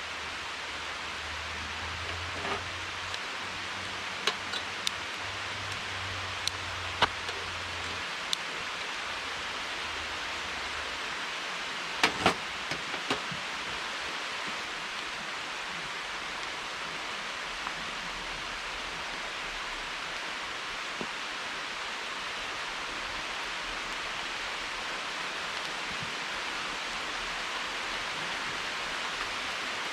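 Steady hiss of heavy rain, with scattered sharp taps and drips, the loudest a short cluster about twelve seconds in.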